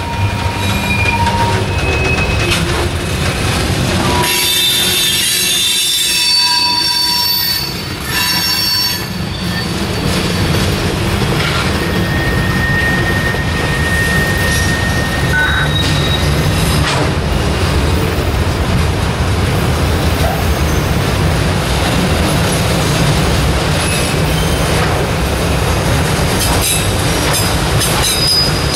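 Freight train cars, autoracks among them, rolling past: a steady low rumble of wheels on rail with scattered high wheel squeals, thickest a few seconds in, and occasional clicks.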